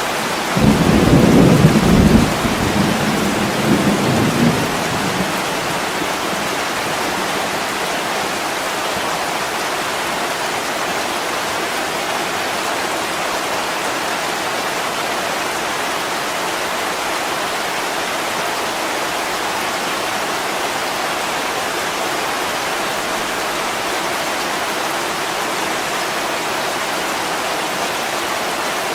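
Heavy rain pouring steadily on a window pane, with a roll of thunder starting about half a second in that rumbles for some four seconds and dies away.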